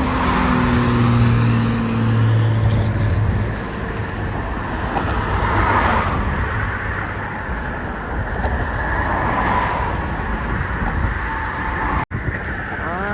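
Road traffic, with cars passing close by one after another, each swelling and fading. The first carries an engine hum that drops in pitch as it goes by. The sound cuts out for an instant near the end.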